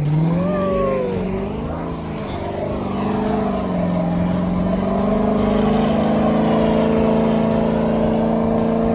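Car engine revving up hard, wavering, then held at steady high revs for several seconds, with a rough hiss of spinning tyres underneath, as in a burnout.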